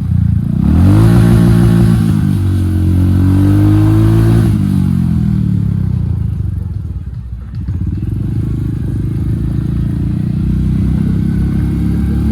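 Royal Enfield Hunter 350's single-cylinder engine through an aftermarket HK exhaust with the dB killer removed, rising in pitch twice with a short break between, then dropping away about five seconds in and running steadily.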